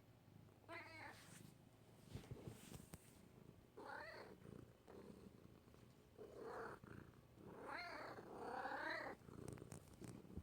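Domestic cat purring softly, with four short pitched meow-like calls spread through it. The last call is the longest, about a second and a half.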